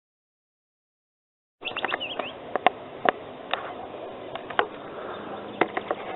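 Silence for about a second and a half, then a new recording begins: a few short bird chirps, followed by scattered sharp clicks or taps over a low background hiss.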